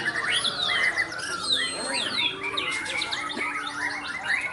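Many small birds chirping and calling at once, a dense tangle of short chirps and falling whistles overlapping each other.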